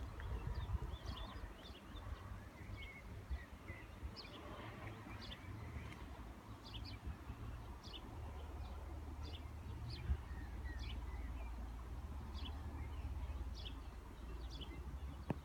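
Birds chirping, many short separate calls spread throughout, over a steady low rumble.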